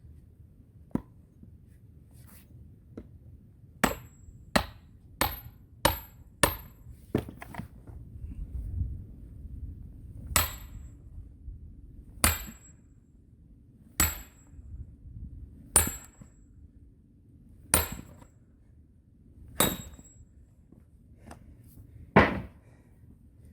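Firewood being split by hand: sharp blows on logs, each with a brief high ring. Five quick, lighter strikes come first, then six heavy blows about two seconds apart, and a last, loudest blow near the end.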